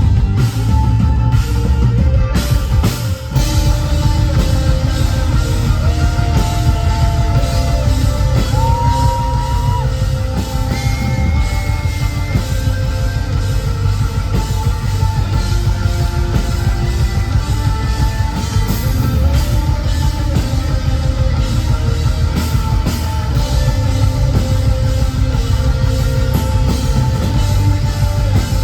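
Live rock band playing loudly: drum kit and heavy guitars with dense low end, and a melody of long held notes that step and bend slightly in pitch.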